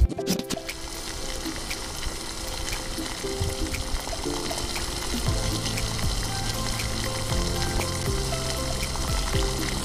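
Breaded pigeon thigh deep-frying in hot oil in a small wok: a burst of sharp crackles as it goes into the oil at the start, then a steady sizzle.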